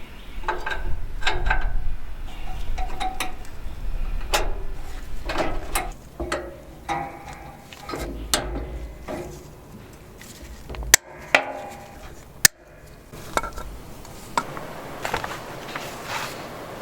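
Metal tools and tractor parts clinking and knocking during transmission work. There is a string of irregular sharp knocks, some ringing briefly, and two especially sharp clicks past the middle.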